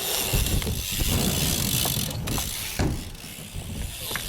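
BMX bike riding on the park ramps: a steady rolling rattle with a few short knocks.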